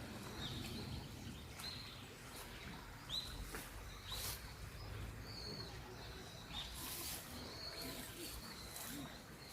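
Small birds calling: short, high chirps about once a second, over a faint low background hum.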